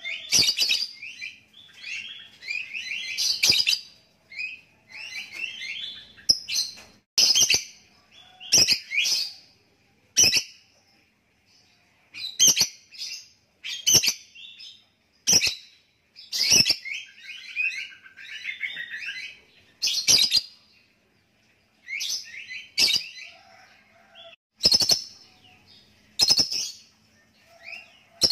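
A lovebird singing: bursts of fast, high chattering notes broken up by sharp clicks every second or two, with a longer run of chatter about two-thirds of the way through.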